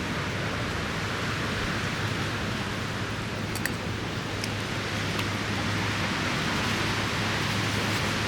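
Heavy rain falling steadily, a continuous even hiss with a low rumble underneath.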